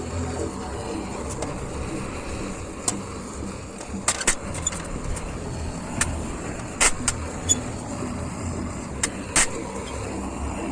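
Hammer blows on a warped steel fire-pit grate being beaten straight, several sharp strikes at irregular intervals, the loudest about four, seven and nine and a half seconds in, over a steady low rumbling noise.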